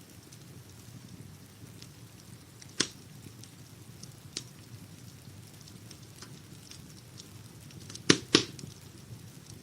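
Wood fire crackling in a fireplace: a steady low rumble under scattered sharp pops, with two loud pops in quick succession near the end.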